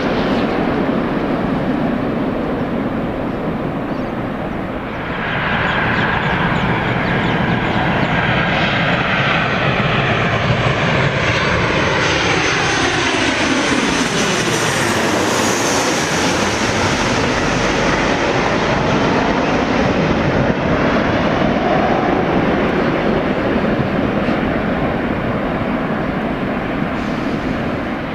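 Jet airliner on final approach to land, flying low overhead. Its engine roar builds, and the whine slides down in pitch as it passes, about halfway through.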